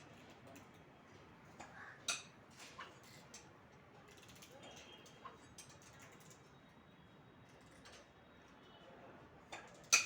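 Scattered clicks and knocks of hand tools and engine parts being handled: a sharp knock about two seconds in, a few lighter clicks over the next few seconds, and the loudest knock at the very end.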